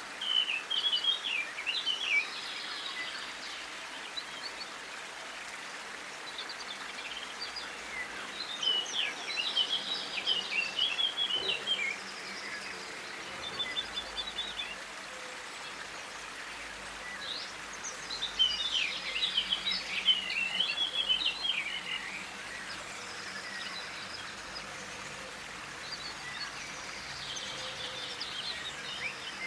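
A songbird singing a quick, twittering song phrase, repeated about every nine seconds over a steady background hiss.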